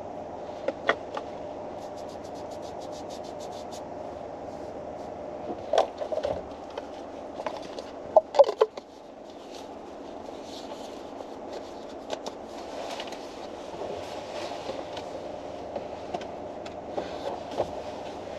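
Steady hum of a car's interior, with scattered light knocks, clicks and scrapes of someone moving and handling things inside the cabin; the loudest knocks come about eight seconds in.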